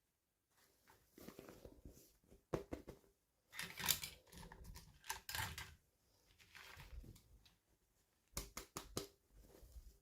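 Toy packaging handled and opened by hand: soft plastic rustles with scattered clicks, and a quick run of clicks near the end.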